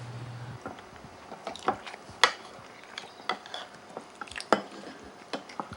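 Tableware clicking and clinking during a meal: a scattered series of light, sharp taps of dishes and utensils, roughly one every second.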